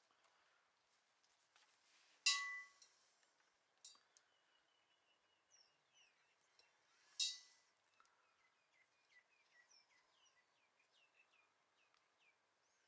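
Two short, sharp sounds with a brief ring, about five seconds apart, the first a little after two seconds in. After them a bird chirps faintly in a quick run of short falling notes.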